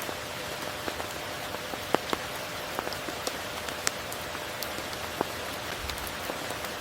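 Steady tropical rain falling, with scattered sharp drops striking close by, the loudest about two seconds in.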